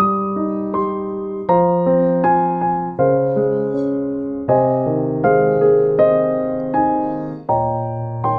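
Background piano music: a slow, even run of chords, a new one struck about every one and a half seconds, each ringing and fading before the next.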